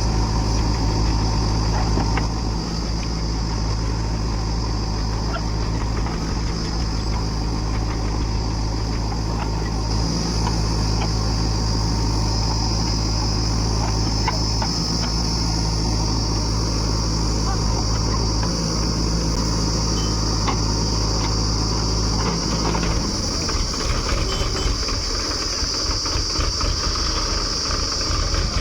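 A heavy diesel engine running steadily at an even speed. About 23 seconds in, its steady hum breaks up and changes.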